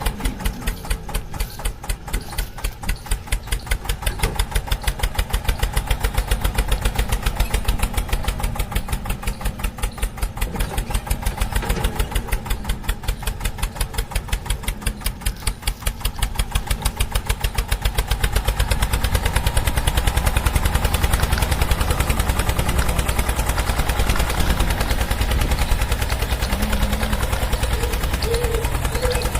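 Tractor engine chugging steadily with an even putt-putt of about four or five beats a second, getting louder about two-thirds of the way through.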